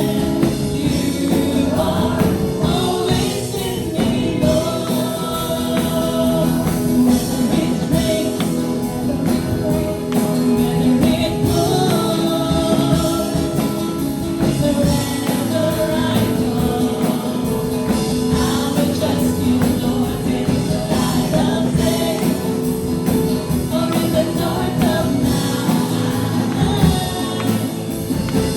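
Worship band playing a gospel praise song, with a group of voices singing together over the instruments.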